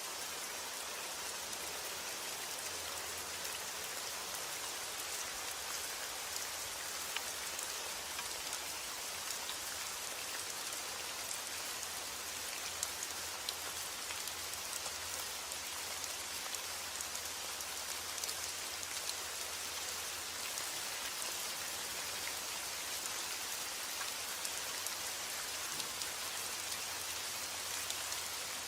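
Steady rain falling: an even, dense hiss sprinkled with many fine drop ticks.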